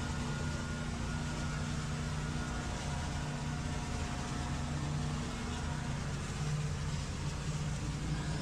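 Engine running steadily at a constant speed, with a steady hum under an even rushing noise.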